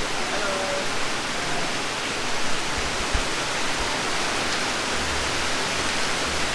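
A steady, even hiss of noise, with a few dull low thumps about three and five seconds in.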